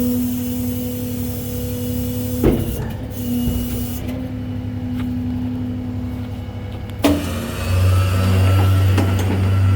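Peterbilt rollback tow truck running with its bed hydraulics engaged: a steady mechanical hum and whine, with a sharp knock about two and a half seconds in and another about seven seconds in, after which a deeper, louder low hum takes over.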